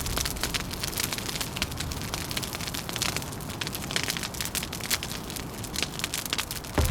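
Wood fire crackling: irregular small pops and snaps over a steady hiss.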